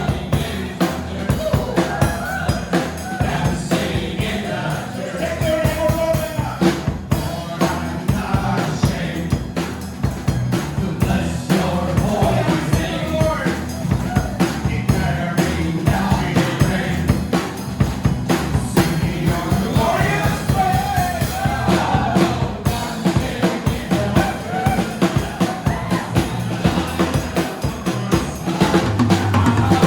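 Worship song with voices singing together over a band, drums keeping a steady beat.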